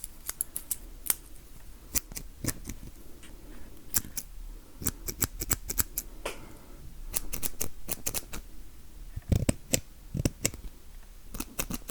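Close-miked ASMR hand sounds: quick, irregular sharp clicks and taps, some in fast clusters, with a couple of softer low thuds about two thirds of the way through.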